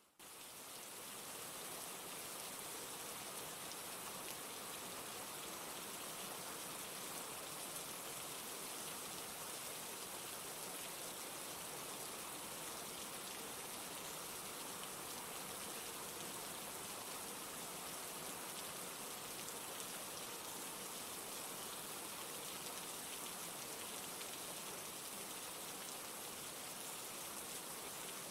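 Steady rain falling, an even hiss of many drops with no single drop standing out. It fades in over the first second or so, then holds level.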